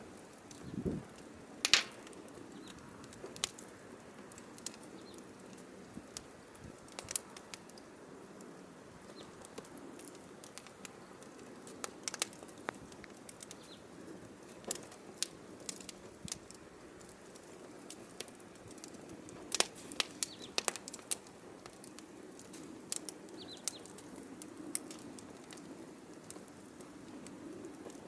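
Firewood burning: a steady low rush of flame with sharp, irregular crackles and pops, a few louder snaps about two seconds in and again around twenty seconds.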